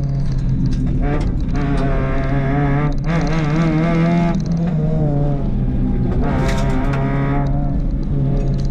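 Rally car engine working hard under full throttle, heard from inside the cabin, its revs climbing and dropping as the driver shifts gear, with a few short sharp clicks over it.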